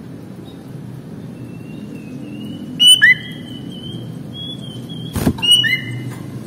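Sooty-headed bulbul (kutilang) singing: long, thin, level whistled notes broken by two sharp rising chirps, with a couple of sharp clicks, over a steady low hum.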